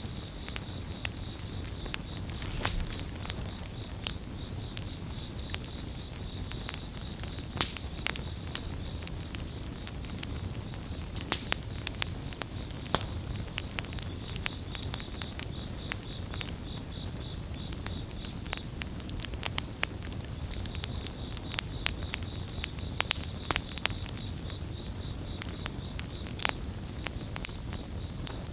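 Wood campfire crackling, with frequent sharp pops and snaps over a low steady rush of flame. Crickets chirp in a steady high pulsing trill behind it, dropping out for a few seconds in the middle and coming back.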